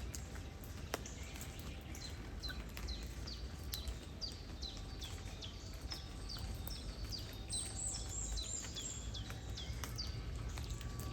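Light rain with scattered drop ticks over a low rumble of wind and flowing river water, while a bird repeats a quick series of short falling chirps, about three a second, with higher notes joining near the end.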